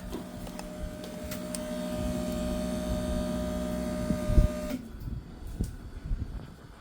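Small electric pump motor running with a steady whine, then cutting off suddenly about two-thirds of the way through; a single sharp knock just before it stops.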